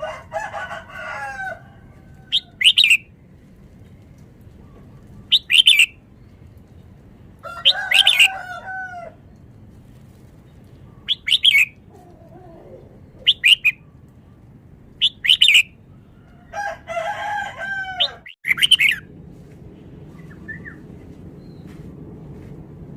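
Red-whiskered bulbul singing short, loud, bright phrases every two to three seconds, about seven in all. A rooster crows three times between them in the background.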